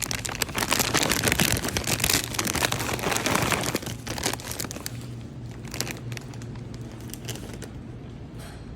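Plastic packaging crinkling and rustling as it is handled, loudest for the first four seconds and then lighter, scattered crackles, over a low steady hum.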